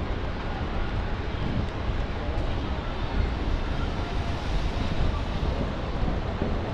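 Steady rainy-city street noise: traffic and tyre hiss on wet pavement, with a low wind rumble on the microphone.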